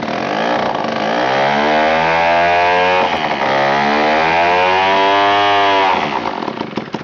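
Vintage Mall two-stroke chainsaw running without a muffler, revved up twice with a dip in pitch between. It is throttled down about six seconds in and sputters out near the end.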